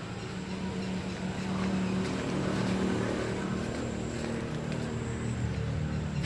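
Hino truck's turbo-intercooled diesel engine running steadily, a low droning note that swells slightly around the middle.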